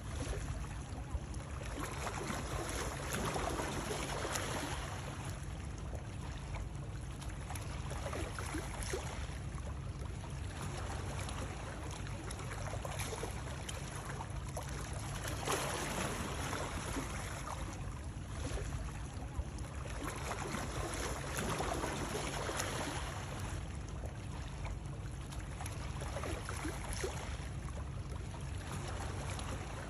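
Running water: a continuous splashing and trickling that swells every few seconds, over a steady low rumble.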